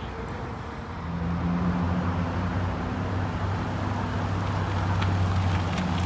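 A 2004 Infiniti G35 coupe's 3.5-litre V6 engine running at low revs: a steady low drone that comes in about a second in and grows a little louder toward the end.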